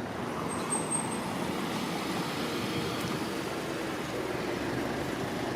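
Steady city street ambience: a low wash of distant traffic with no single vehicle standing out.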